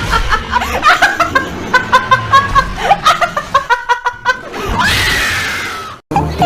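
A person laughing in short, choppy bursts, then a long high-pitched shriek with a falling pitch about five seconds in.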